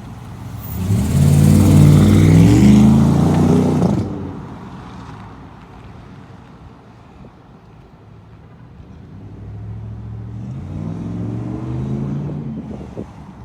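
2008 Jeep Commander's 5.7 Hemi V8 running through a Magnaflow exhaust, revved hard about a second in, held for a few seconds and dropped back to idle. It is revved again more gently near the end.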